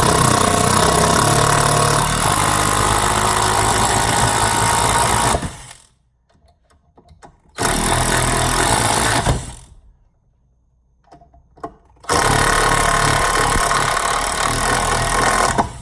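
Ryobi 18-volt cordless impact driver hammering a large flathead screw in three runs, the first about five seconds long, then a short one, then a longer one near the end. The bit is tearing up the screw head as it drives.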